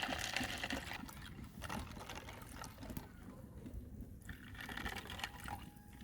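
Liquid being poured into a cup while a drink is mixed, in several short pours.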